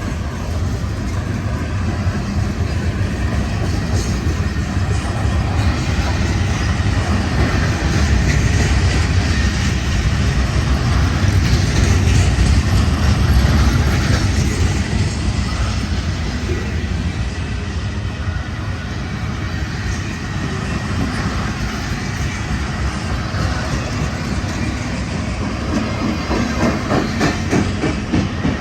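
Freight cars of a manifest train rolling past on the rails: a steady rumble of wheels on rail that swells about halfway through, with a run of clickety-clack from the wheels over rail joints near the end.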